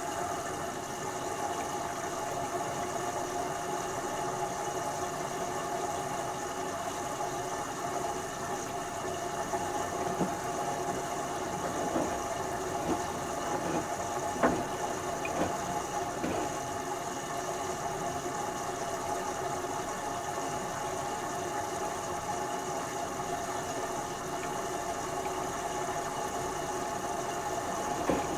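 LG Turbowash 360 AI DD direct-drive washing machine in its first rinse, the motor turning the drum with a steady hum. A few short knocks come in the middle stretch as the load tumbles.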